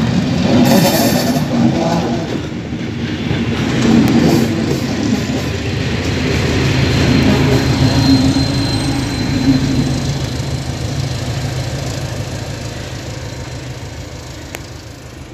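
Passenger train passing close at a level crossing: coach wheels and bogies rumbling and rattling, then a Class 73 electro-diesel locomotive going by with a steady engine hum, loudest about eight seconds in. The sound then fades steadily as the train moves away.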